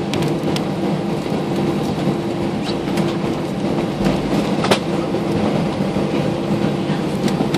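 Airbus A320 cabin noise while taxiing: the jet engines running at a steady low thrust, a constant hum and rumble, with a few short knocks and rattles, the loudest about two-thirds of the way through.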